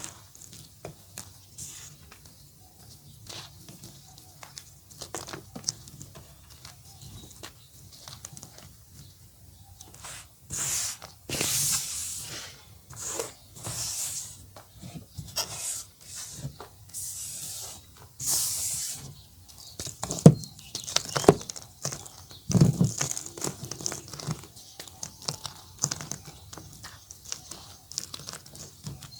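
Gym chalk being crumbled, with fine gritty crackling. From about a third of the way in come louder crunching, powdery bursts, one every second or so. Two sharper thumps fall near two-thirds of the way through.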